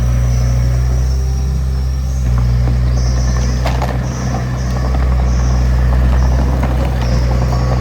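Heavy diesel engine of earthmoving machinery running steadily, a deep continuous drone, with a few faint metallic clicks over it.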